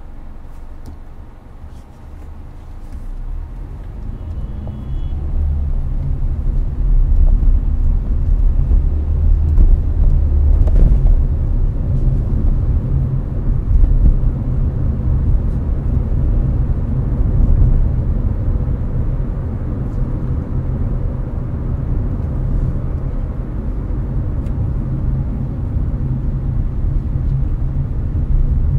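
Hyundai Avante (Elantra) at highway speed, heard from inside the cabin: a steady low road and tyre rumble with air-conditioning fan noise over it. The rumble grows louder over the first several seconds, then holds steady.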